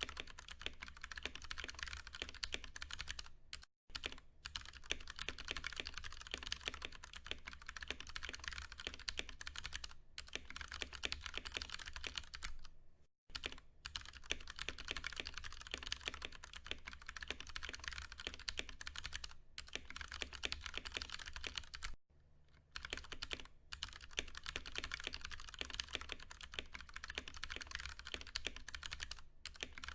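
Fast, steady typing on a Ducky One 2 Mini mechanical keyboard with tactile, non-clicky Cherry MX Brown switches, the keys clacking in quick succession. The typing breaks off briefly three times, about four, thirteen and twenty-two seconds in.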